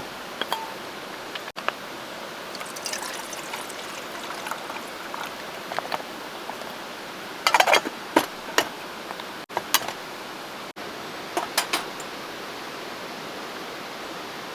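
Coffee being made: water poured and trickling, with sharp clicks and knocks of camp cookware, over a steady hiss. The knocks come in small clusters about halfway through and again near the end.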